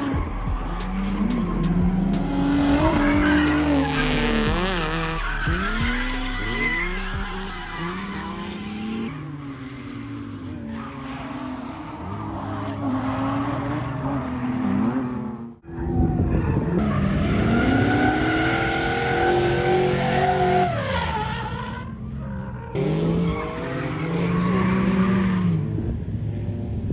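Drift car engine revving hard, its pitch rising and falling over and over as it slides, with tyre squeal. The sound drops out sharply for a moment a little past halfway, then picks up again.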